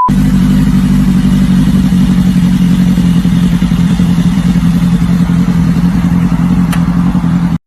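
Superbike engine running loudly at steady revs, with a short click about seven seconds in.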